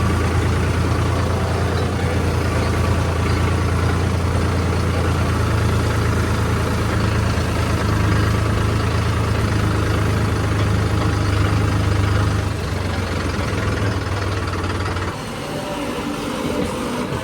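Heavy diesel vehicle engine running steadily at idle with a deep, even hum, which stops about fifteen seconds in.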